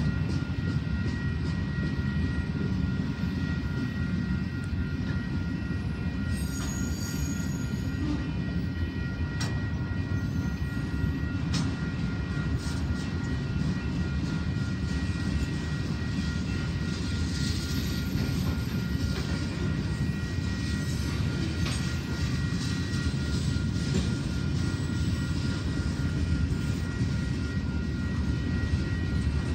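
Freight train cars rolling past steadily, their wheels on the rails making a continuous low rumble. A faint steady high whine runs along with it, and a few sharp clicks come in the first half.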